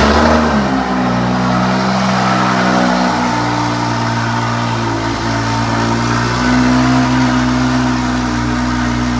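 2015 BMW 435i's turbocharged 3.0-litre inline-six running just after a cold start, its revs easing down slightly in the first second and then holding at a steady high idle.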